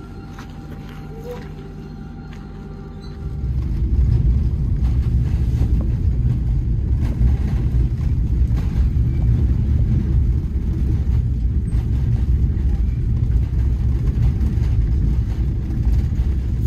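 Passenger train sounds: a steady hum with a few held tones. About three seconds in, it switches abruptly to loud, low, uneven running noise that carries on to the end.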